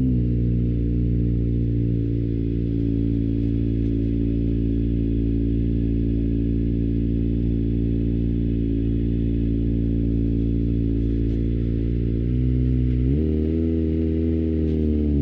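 Kawasaki ZX-25R 250cc inline-four motorcycle engine with an Akrapovic exhaust, heard from onboard, holding a steady engine speed for most of the time. About 13 s in the pitch jumps up suddenly, then begins to fall near the end.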